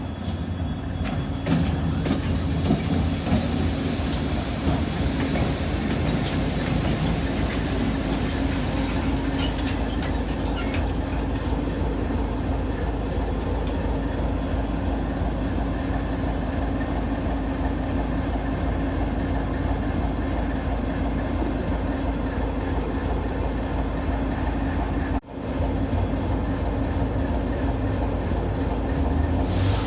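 TEM7A diesel-electric shunting locomotive running steadily on the move, its engine giving a low, even hum. A few faint high wheel squeaks come in the first ten seconds, and the sound cuts out for an instant about 25 seconds in.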